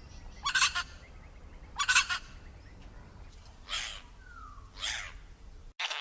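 A bird calling: four short, rough calls a little over a second apart. Just before the end the sound cuts abruptly to a different recording.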